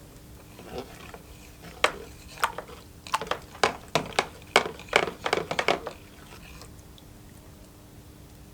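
Small hard parts being handled on a workbench: a quick, irregular run of sharp clicks and clinks, about a dozen in four seconds, which then stops.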